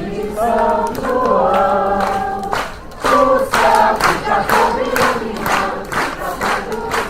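A group of children's and adults' voices singing a festa junina song together. From about three seconds in, rhythmic hand clapping keeps time about twice a second under the singing.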